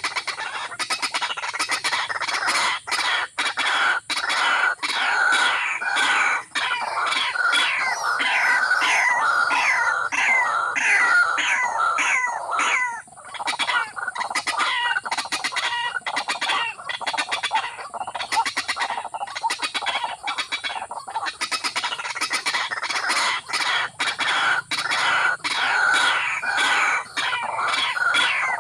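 Birds calling: rapid runs of short, downward-sweeping chirps and clucks, several a second, with brief breaks.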